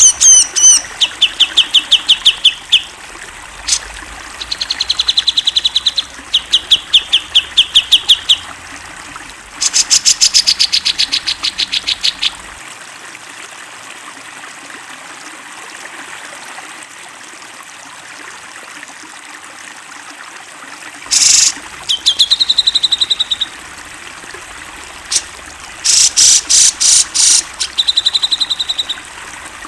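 Cucak jenggot (grey-cheeked bulbul) singing in phrases of fast, rapidly repeated whistled notes, with a pause of several seconds midway, over a steady background hiss.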